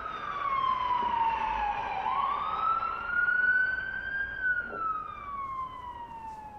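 Wailing siren sound effect. Its pitch falls for about two seconds, climbs for about two, then slowly falls again.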